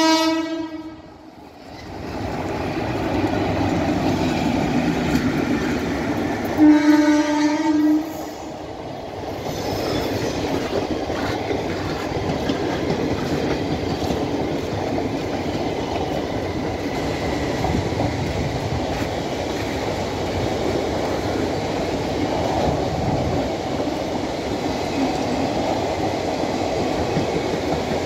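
Passenger train passing through a station: a locomotive horn blast cuts off just after the start, and a second blast sounds about seven seconds in and lasts over a second. Between and after them comes the steady rumble and clickety-clack of the coaches' wheels on the rails.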